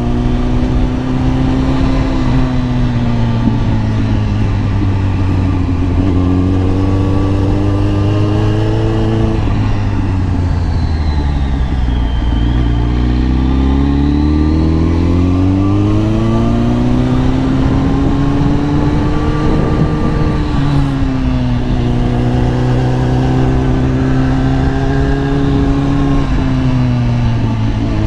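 Kawasaki ZX-10R's inline-four engine running under way at steady revs. About ten seconds in the pitch falls as the bike slows, then climbs steadily again through the middle, dips briefly and rises once more near the end.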